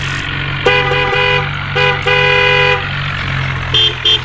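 Car horn honking in a pattern, a short blast and a long one and then the same again, with quick short toots starting near the end, over a steady low engine hum.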